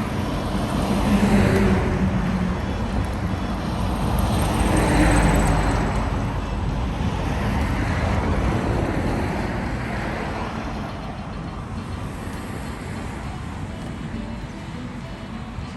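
Road traffic: vehicles passing one after another, the road noise swelling and easing a few times and growing quieter toward the end.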